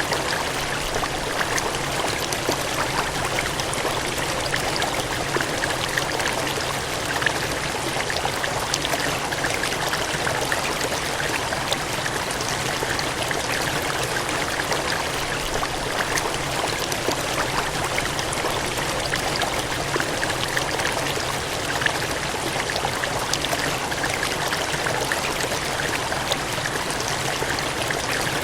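Cascading water gushing in a steady, even rush, with faint small splashes flickering through it.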